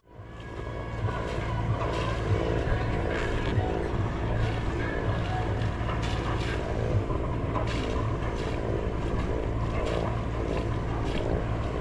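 A sailing yacht's inboard diesel engine running steadily under way, with water splashing against the hull at irregular moments.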